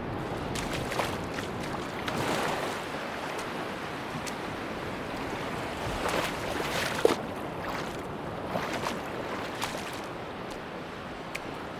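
Sea waves surging and washing on a beach, swelling about two seconds in and again around six to seven seconds, with small splashes.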